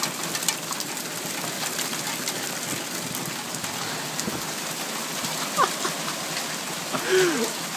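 Heavy rain and hail pelting down: a dense, steady hiss scattered with many sharp ticks of stones striking.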